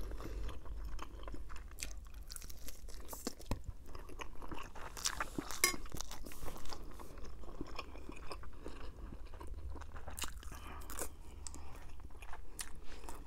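Close-miked chewing and wet smacking of a person eating roasted chicken and fettuccine Alfredo, with many short crunchy clicks throughout.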